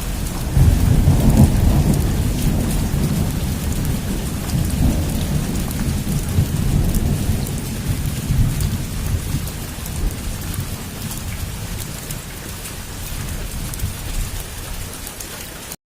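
Heavy rain pelting a rooftop, with a long roll of thunder that swells about half a second in and slowly fades. The sound cuts off suddenly near the end.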